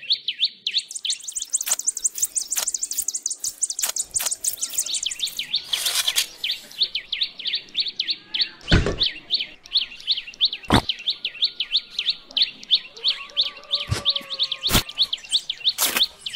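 Birds chirping: a rapid, unbroken run of short chirps, with a higher thin trill over it for the first few seconds. Four sharp knocks come in the second half, the loudest about nine seconds in.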